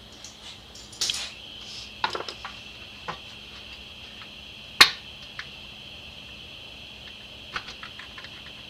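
Small metal carburetor parts and hand tools clicking and tapping on a workbench: a handful of light clicks, with one sharp click about five seconds in, over a steady high-pitched hiss.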